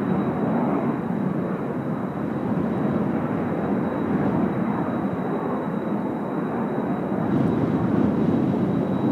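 Kawasaki T-4 jet trainers flying over, a steady jet rush that swells slightly near the end.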